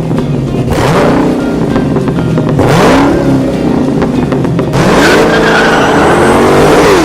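Car engine revving hard, its pitch climbing and dropping back several times over loud noise, then cutting off suddenly at the end.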